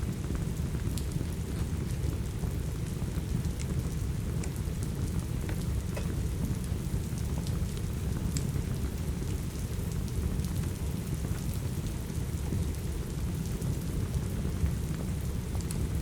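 Steady rain with a deep, even rumble underneath, mixed with scattered small crackles and pops of a burning wood fire.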